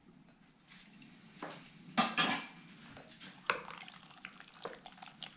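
A utensil stirring a marinade in a bowl, scraping, with irregular clinks against the bowl that are loudest about two seconds in.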